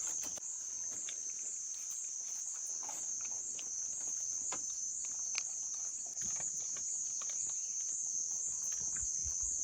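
Steady high-pitched chorus of insects trilling without a break, with a few faint scattered clicks.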